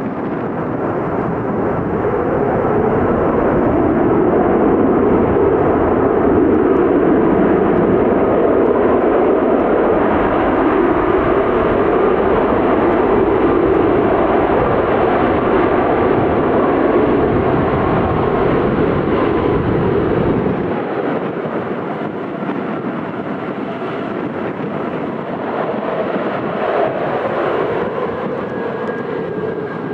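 Aircraft engines passing in a long, steady roar that builds over the first few seconds, holds, then slowly fades. A low rumble underneath drops away abruptly about two-thirds of the way through.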